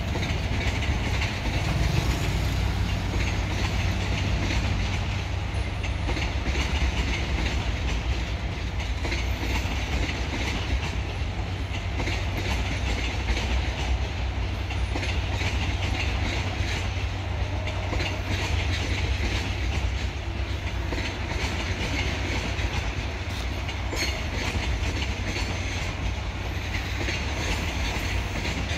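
A freight train of cement hopper wagons rolling past, a steady rumble and rattle of wheels on the rails.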